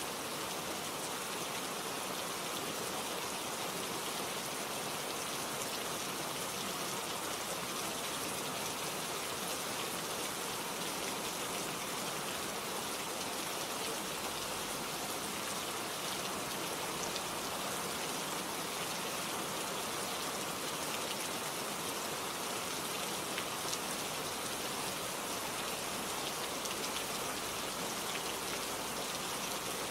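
Steady rain falling on leaves and surfaces, an even hiss of many fine drops with no change in strength.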